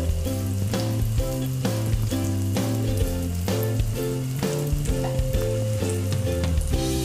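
Kue cucur batter deep-frying in hot oil in a wok, sizzling steadily, under background music with a steady beat.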